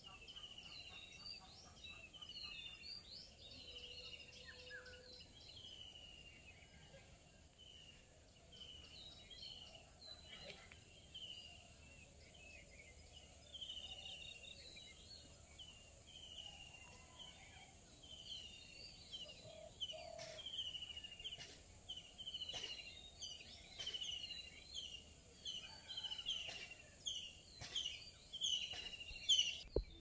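Small birds calling faintly over quiet rural ambience: a short falling note repeated about once a second, with other calls overlapping. A few sharp clicks come in the second half.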